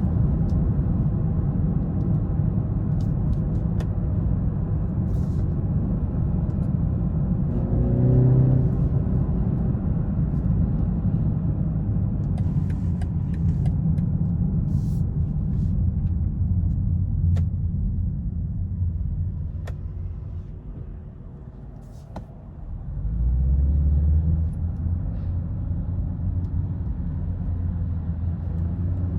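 2020 BMW 330i's 2.0-litre turbocharged four-cylinder engine and road noise while driving. The engine briefly rises in pitch about 8 seconds in, grows quieter as the car eases off around two-thirds of the way through, then pulls hard again and stays loud.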